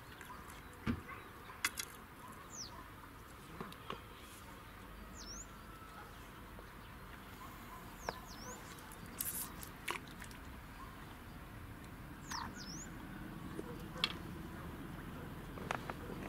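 A bird calling repeatedly with short, high, falling chirps, one every few seconds, with a few sharp clicks in between, the loudest about a second and two seconds in.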